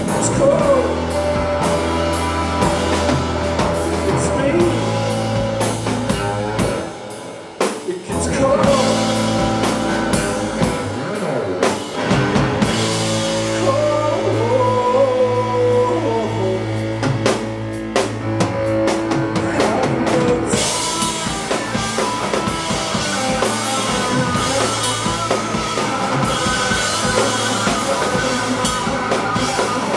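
Live rock band playing, with the drum kit to the fore under bass and guitar. The band thins out briefly about seven seconds in, then comes back in full.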